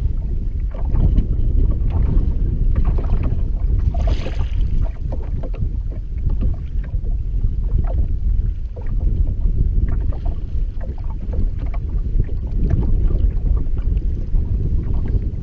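Strong wind buffeting the camera microphone with a deep, loud rumble, mixed with hard rain. A brief sharper hiss comes about four seconds in.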